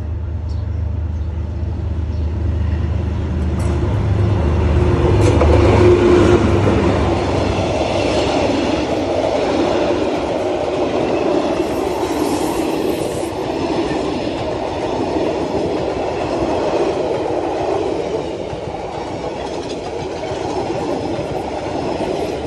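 D19E diesel-electric locomotive passing close, its engine a low drone that is loudest about six seconds in. Then passenger coaches roll by with steady wheel-on-rail noise.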